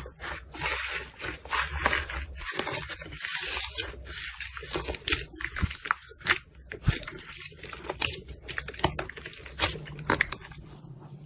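Slime being squeezed and pressed by hand, with dense, irregular crackles and pops.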